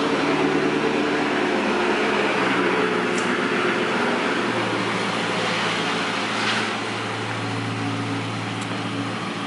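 2006 Dodge Charger Daytona's 5.7-litre Hemi V8 idling steadily just after start-up, through a Magnaflow exhaust with the resonators deleted. The low note shifts slightly a couple of seconds in.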